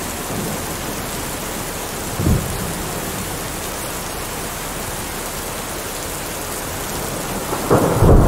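Steady rain, with a short crack of thunder about two seconds in and a louder clap of thunder rumbling near the end.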